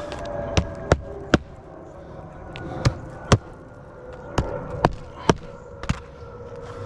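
Hammer strikes driving roofing nails into shingles: about nine sharp knocks in groups of two or three, each group a quick run of blows.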